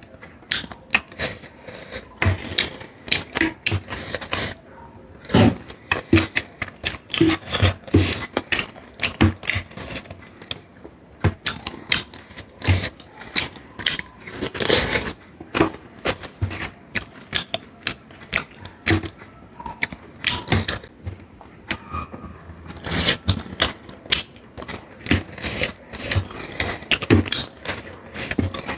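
Close-miked eating sounds: chewing and lip smacking, an irregular, rapid run of sharp clicks and smacks, with one longer, louder noise about halfway through.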